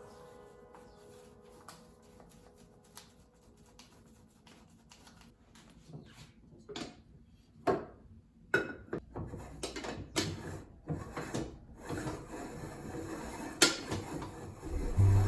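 Scattered clicks, knocks and rubbing of small objects being handled, faint at first and busier from about six seconds in.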